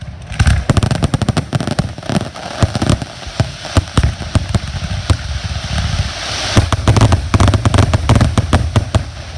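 Consumer fireworks firing in a rapid, dense barrage of bangs and crackles. The barrage is thickest with crackling and deep thumps a little past the middle.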